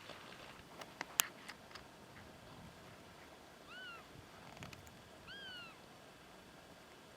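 Two short, high mewing whines from a raccoon dog, each rising and then falling in pitch, about a second and a half apart. A couple of sharp clicks come about a second in.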